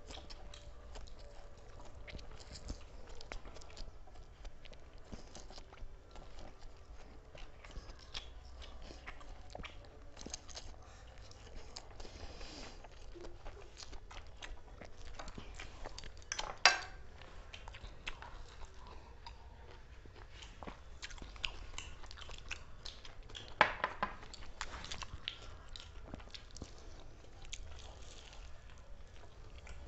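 People eating fast: chewing and crunching with many small clicks of utensils and plates. Two sharp knocks stand out, about 17 seconds in and again about 24 seconds in.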